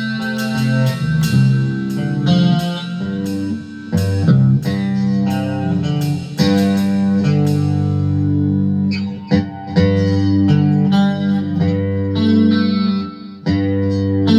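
Guitar being played: a riff of picked notes and chords with sharp attacks, broken by brief pauses a few times.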